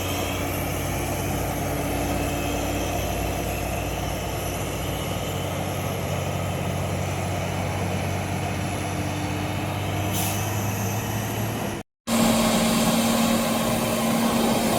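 Heavy truck engine running with a steady low drone. About twelve seconds in the sound breaks off briefly and returns as a louder engine drone with a higher steady tone.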